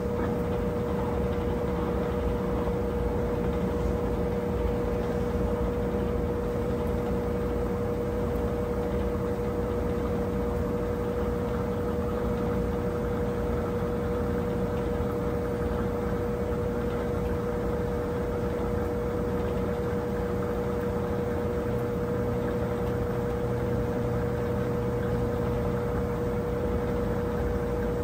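Brastemp 17 kg washing machine running at a steady speed, with a constant whine over a low hum.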